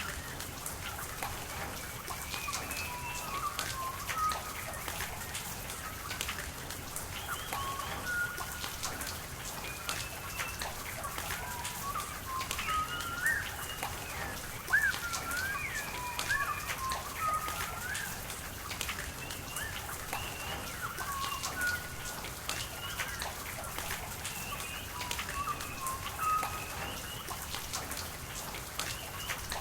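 Steady rain hiss and pattering drops over running water, with birds chirping in short, frequent calls throughout.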